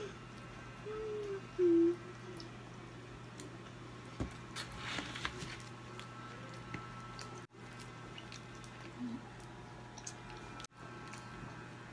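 A young child chewing pizza, with two short hummed "mm" sounds about a second in.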